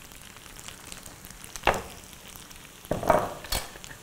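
Buttered spaghetti sizzling faintly in a skillet just taken off the heat, with a short scrape partway through and a few louder scrapes and a sharp knock near the end as it is moved toward a glass bowl.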